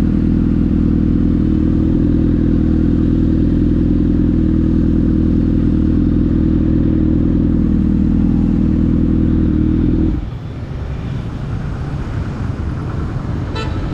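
Honda CBR1000RR's inline-four engine running at a steady, unchanging pitch, which cuts off abruptly about ten seconds in, leaving quieter background noise.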